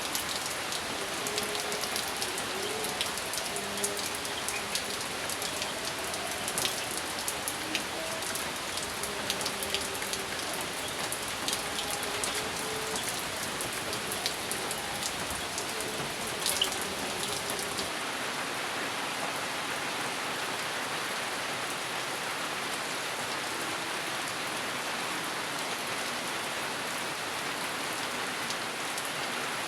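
Steady rain falling, with sharp close raindrop ticks through the first half. From about 18 seconds in, the rain becomes a smoother, even hiss with fewer ticks.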